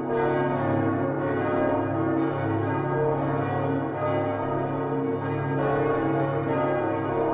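Many large church bells of the Utrecht Dom tower, including Geert van Wou's bronze bells of 1505, swinging on straight headstocks and ringing together. The strokes overlap densely and irregularly over a sustained deep hum from the largest bells, at an even loudness throughout.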